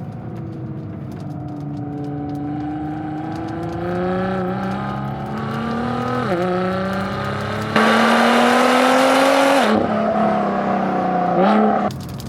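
Nissan GT-R R35's twin-turbo V6 accelerating through the gears: the engine note climbs steadily, then drops sharply at upshifts about six seconds in, near ten seconds and again shortly after. The loudest stretch is a hard, full-throttle pull of about two seconds just before the second shift, and the sound cuts off abruptly near the end.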